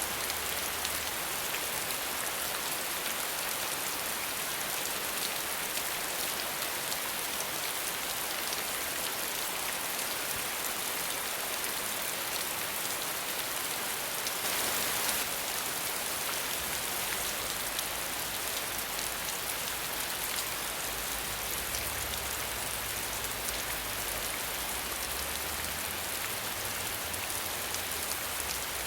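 Steady rain with no thunder, an even hiss of falling rain that swells briefly about halfway through.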